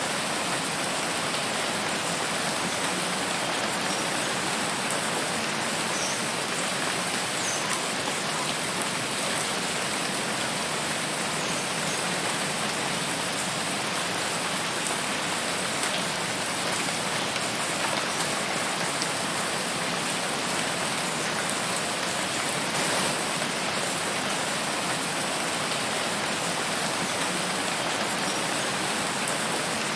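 Steady rainfall, an even hiss of drops on a surface with scattered faint ticks of individual drops.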